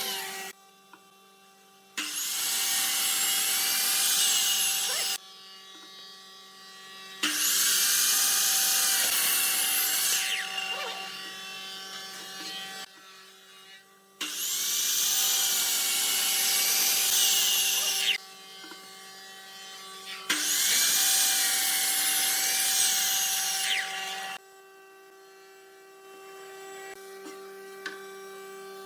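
A power tool working wood in four stretches of three to four seconds each, each starting and stopping abruptly, with a steady hum between them.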